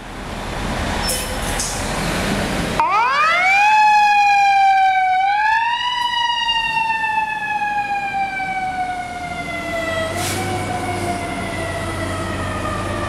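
Fire engine siren: after a few seconds of rushing noise, it winds up sharply in pitch, rises again briefly, then slowly winds down with a falling wail, over a low rumble from the engine.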